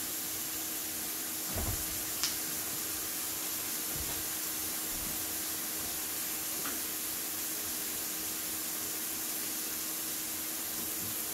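Chicken and vegetable stir-fry sizzling steadily in a hot oiled pan, with a soft knock and a sharp click a couple of seconds in and a faint click later on.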